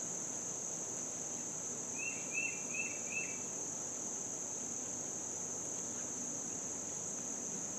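Steady high-pitched insect chorus, with four short chirps in quick succession about two seconds in.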